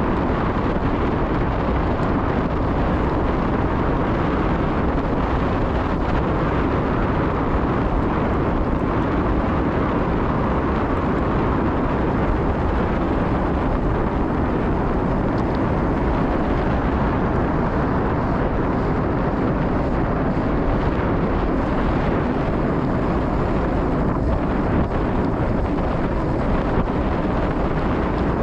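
Steady wind noise rushing over the microphone of a bike-mounted camera, mixed with tyre rumble from a gravel bike riding at speed.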